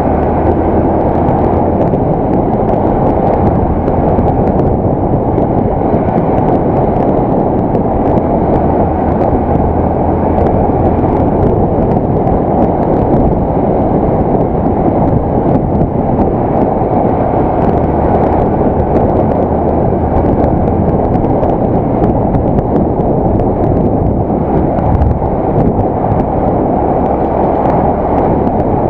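Loud, muffled rush of wind on a helmet-mounted action camera's microphone while riding, with the Yamaha YBR 125's single-cylinder four-stroke engine running steadily underneath.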